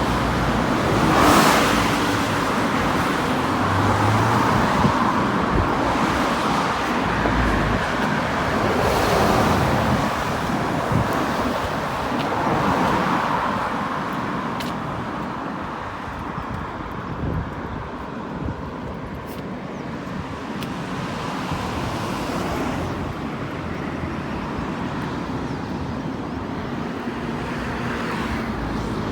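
Road traffic: a steady wash of passing vehicles. Several cars swell up and fade away every few seconds, the loudest about a second in.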